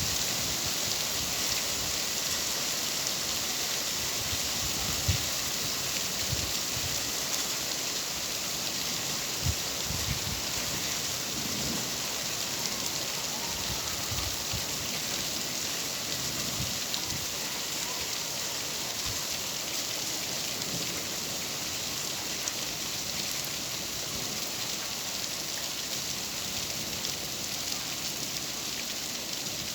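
Steady rain falling, an even hiss, with a few brief low thuds of heavier drops in the first half.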